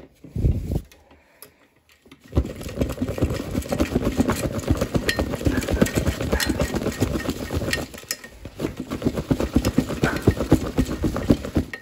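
The cloth bag of a Hoover Conquest upright vacuum, unhooked at the top, being shaken hard to knock the dirt down: a couple of thumps, then about nine seconds of fast, irregular flapping and rattling that eases briefly once before going on.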